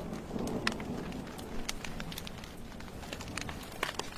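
Wood fire crackling, with scattered sharp pops, over a steady hiss and patter of rain.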